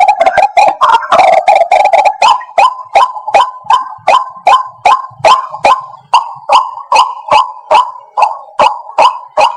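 White-breasted waterhen calling loudly: a dense run of overlapping notes for the first couple of seconds, then a steady series of sharp, repeated notes at about three a second.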